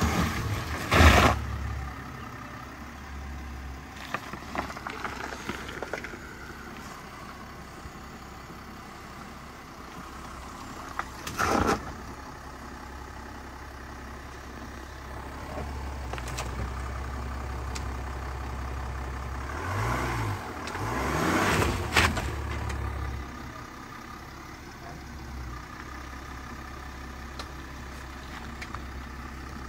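Range Rover Velar's 3.0 V6 engine running at low revs as the car crawls over a concrete step on an off-road track, its hum growing louder about two-thirds of the way through. A few short, loud rushing noises come about a second in, near the middle and again around twenty seconds in.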